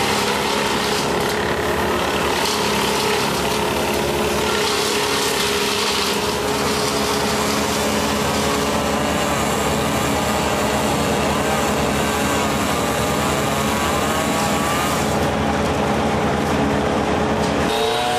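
Engine running steadily at high speed, its pitch changing abruptly near the end.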